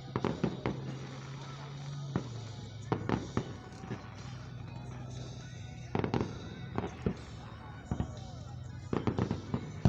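Aerial fireworks shells bursting: sharp bangs in irregular clusters. One group comes about half a second in, more around three seconds and six seconds in, and a rapid string of bangs follows near the end.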